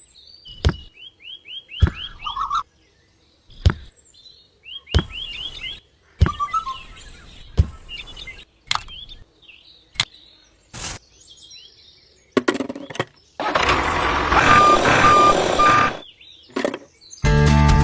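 Sharp, separate clicks and knocks of small hard pieces, such as miniature bricks, being set down and handled, with short bursts of bird chirping. Near the end comes a stretch of hiss with three short beeps.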